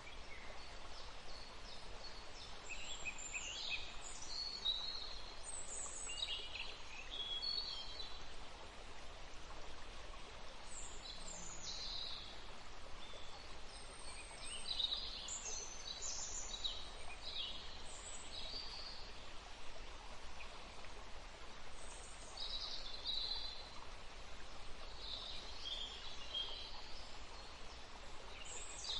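Birds chirping and calling in many short, scattered notes over a steady background hiss.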